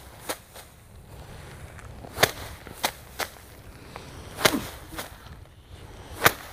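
Bundles of cut rice stalks beaten hard by hand to thresh out the grain: three loud sharp slaps about two seconds apart, with lighter hits in between.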